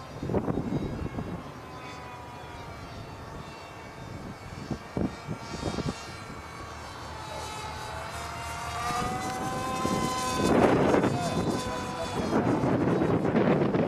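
Electric motor and pusher propeller of a radio-controlled model jet whining as it flies past, the pitch gliding up and down and growing louder about ten seconds in. Gusts of wind buffet the microphone near the end.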